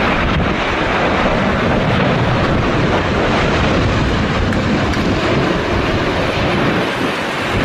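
Strong storm wind, a loud steady rushing with heavy low rumble buffeting the microphone.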